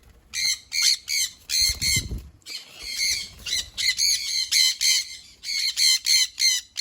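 Sun conures screeching in a rapid string of short, harsh calls, about two or three a second. A brief low rustle comes about two seconds in.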